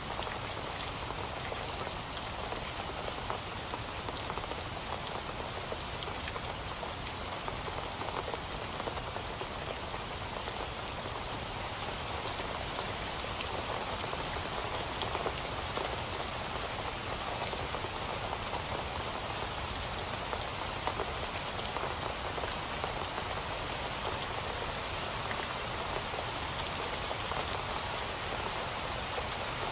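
Steady rain falling on a surface, a dense even patter of drops with no music.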